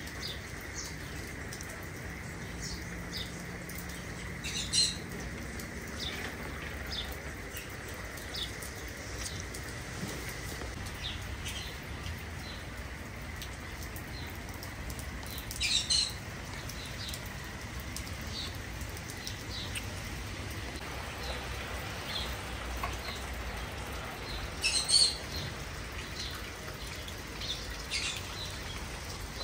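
Birds chirping, with three louder calls about 5, 16 and 25 seconds in, over a steady soft hiss and a faint steady high tone.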